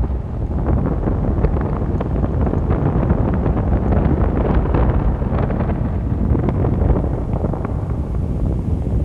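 Strong wind blowing across a microphone: a steady low rumble of buffeting with many short gusty pops and rustles, no letting up.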